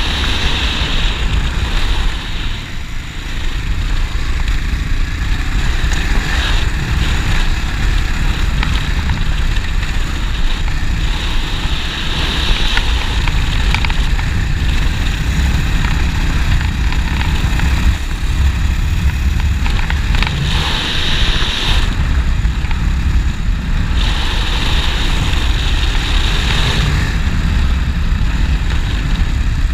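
Honda NX650 Dominator's 644 cc air-cooled single-cylinder engine running while the bike is ridden, a steady low exhaust rumble. A higher hiss swells and fades over it several times.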